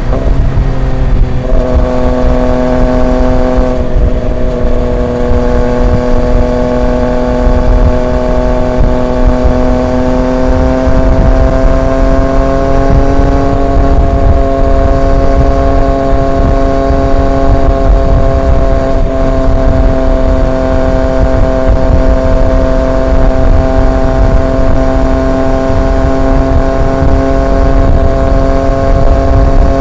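Triumph Street Triple 765 RX's three-cylinder engine through an SC Project S1 exhaust, cruising at steady revs on the expressway. The note breaks briefly near the start, climbs slowly in pitch a little before halfway, then holds steady over wind and road rumble.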